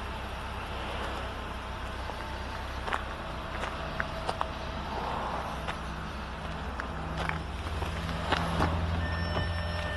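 Audi A4 2.0 TDI diesel engine idling as a steady low hum, slightly louder near the end, with scattered short clicks and knocks of the car being handled.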